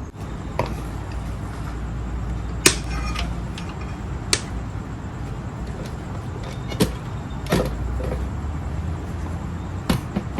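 Knife cutting spring onions on a chopping board: about six sharp, separate knocks, a second or two apart, over a steady low rumble.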